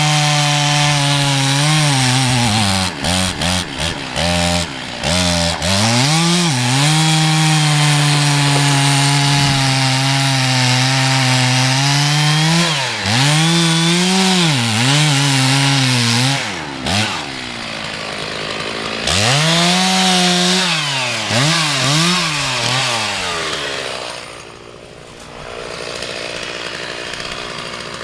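Two-stroke chainsaw cutting into a tree, running at high revs. The engine note dips and recovers as the chain bogs in the cut, several times: around 2 to 5 seconds in, 13 to 15 seconds and 19 to 22 seconds. It runs quieter and lower near the end.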